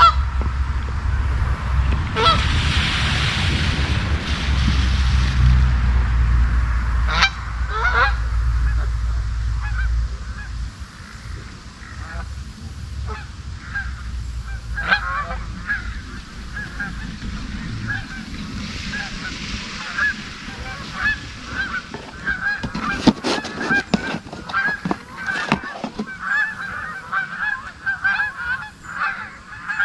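A flock of geese honking, many short calls overlapping and getting denser in the second half. A low rumble underlies the first ten seconds or so, and a cluster of sharp knocks comes about three-quarters of the way through.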